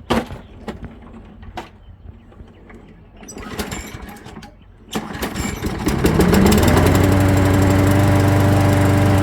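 Old Toro walk-behind lawnmower's small engine being pull-started: a few knocks and a brief rattle, then about five seconds in it catches, speeds up and settles into steady running.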